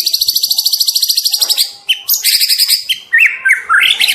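Young white-rumped shama (spotted juvenile) singing. A fast trill of high repeated notes stops short. A second brief trill follows, then a run of loud whistled notes that swoop up and down.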